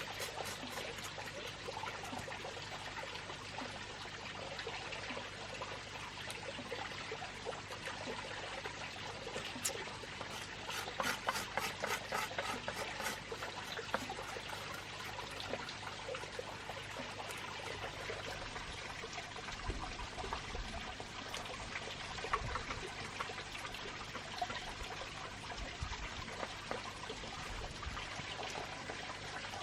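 Water trickling steadily, with a run of sharp ticks and splashes around the middle.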